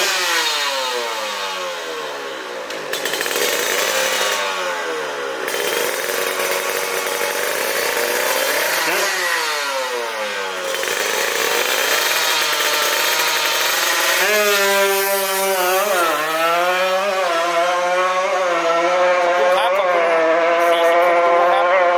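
Tuned two-stroke Kawasaki KR drag-bike engine being revved, its pitch sweeping up and falling away several times. About two-thirds of the way through it is held at high revs with a slight waver.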